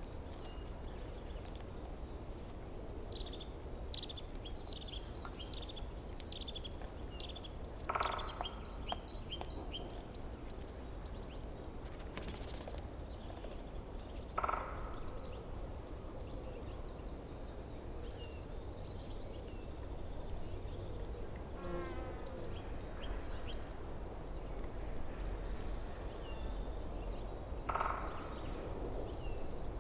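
A forest stream running steadily, with a songbird singing a series of about nine quick falling notes and ending in a short trill in the first third. A few brief bird calls follow later.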